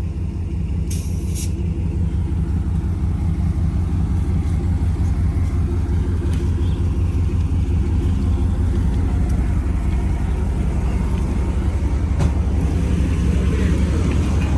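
Vehicle engine idling close by: a steady low rumble that grows slightly louder, with a brief high hiss about a second in.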